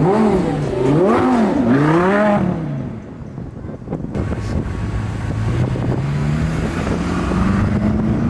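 A car engine revved three times in quick succession, each rev rising and falling in pitch. After a short lull, an engine note climbs slowly and steadily as a car accelerates gently.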